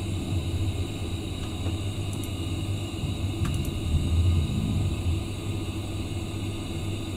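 Steady low rumble of a moving passenger train heard from inside the carriage, with a couple of faint ticks.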